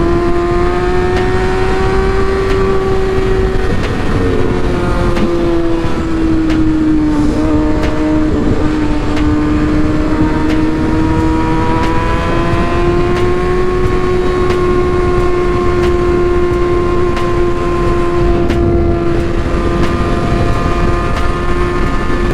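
Motorcycle engine running at a steady cruise, its pitch sagging a little and then climbing again as the throttle eases and picks back up, with wind noise rushing over the microphone.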